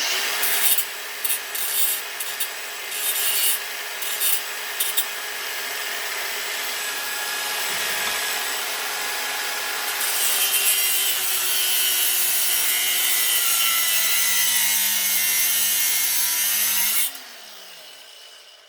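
Power rotary cutting tool slicing into the end of a brass-and-copper water heater valve fitting, in short cuts at first and then one steady cut. It is switched off near the end and winds down with a falling whine.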